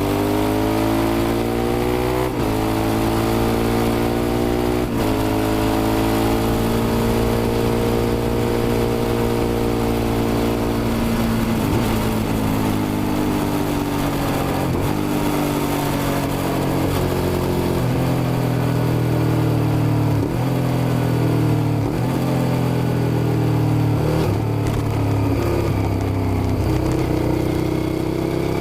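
Suzuki SV650's 645 cc V-twin engine pulling hard on a ride. Its pitch climbs and breaks off at gear changes, then holds a long slow rise before a run of dips and climbs every couple of seconds.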